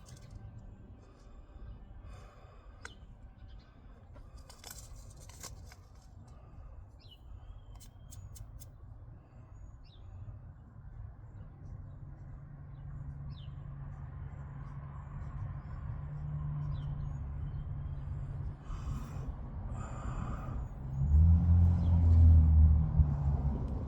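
A low rumble with a steady hum, growing louder through the second half and loudest near the end, with a few faint bird chirps over it.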